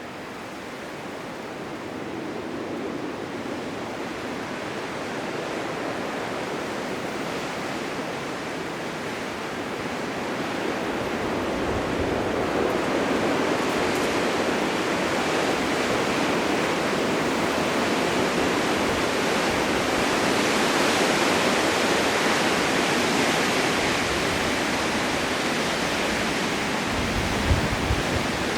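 Blizzard wind blowing as a steady rushing noise, building over the first dozen seconds and then holding. A few brief low thumps come near the end.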